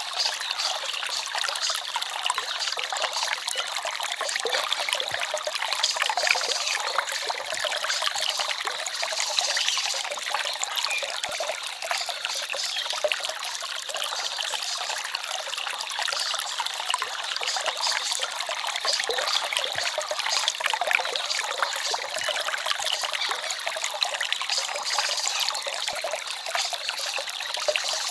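Small forest stream trickling and babbling steadily, a light, splashy water sound with little low rumble.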